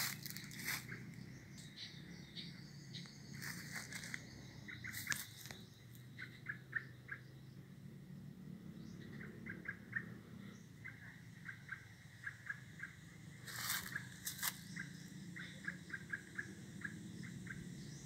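A bird calling in quick runs of short, high notes, with brief crunches of dry leaves underfoot now and then, the loudest a little past the middle.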